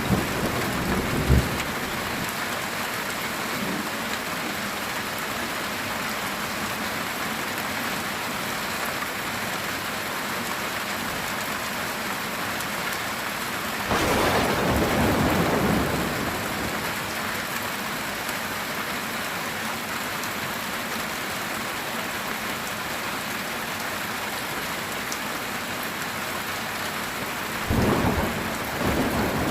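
Heavy rain drumming steadily on a metal tin roof. Thunder rumbles about halfway through for a couple of seconds, and again near the end.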